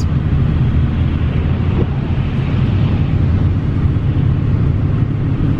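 Steady road and engine rumble inside a moving car's cabin, with an even hiss of tyres on the icy road.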